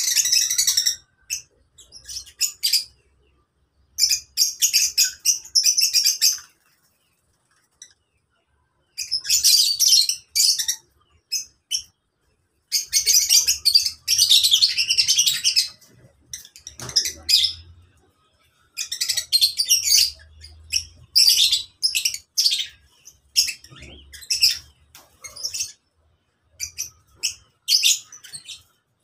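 A flock of lovebirds chattering with shrill, rapid chirps. The chirping comes in bouts of one to three seconds with short pauses between them, and one longer lull about a quarter of the way in.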